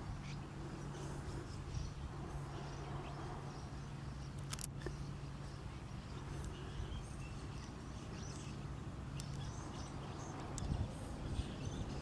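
Birds chirping faintly and intermittently over a steady low hum, with one sharp click about four and a half seconds in.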